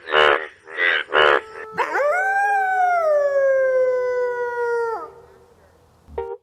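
A few pulsed frog croaks, then a wolf howling once: one long call of about three seconds that rises quickly, then slowly falls in pitch and cuts off.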